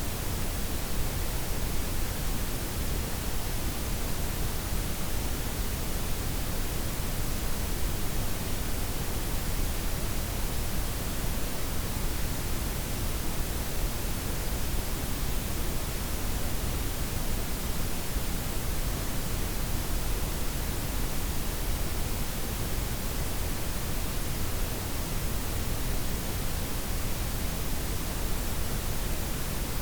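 Steady blend of white, pink and brown noise, an even hiss and rumble with no changes or events.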